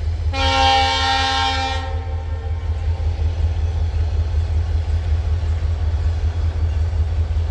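Diesel locomotive air horn sounds one blast of about a second and a half, several tones together, fading out after it stops. A steady low rumble runs underneath.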